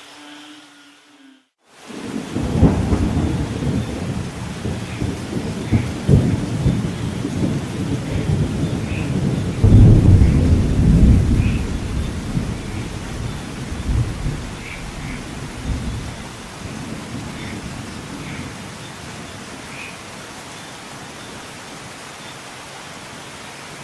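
A long roll of thunder rumbles in about two seconds in, is loudest near the middle and dies away, leaving steady rain. Before it, a low steady hum cuts off abruptly into a moment of silence.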